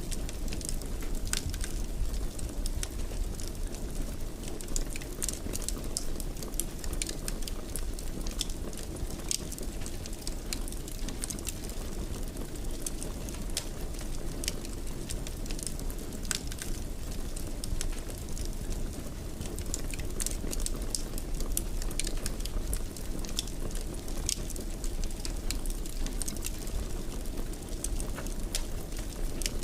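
Fire burning in a fireplace: a steady low rumble of flames with many small, sharp crackles and pops scattered irregularly throughout.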